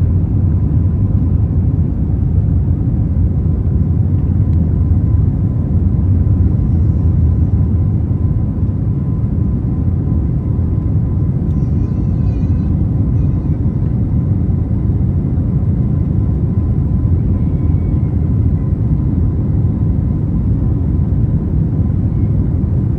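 Airbus A321 jet engine and airflow noise heard inside the passenger cabin: a loud, steady, low rumble with a faint steady high tone running through it.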